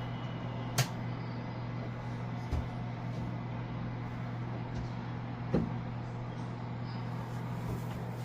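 A steady low mechanical hum, with a few sharp knocks about one, two and a half, and five and a half seconds in.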